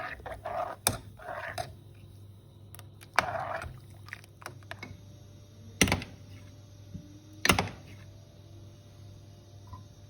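Kitchen work sounds: short scraping or rustling noises in the first two seconds and again at about three seconds, and four sharp knocks of utensils or dishes spread through, over a steady low hum.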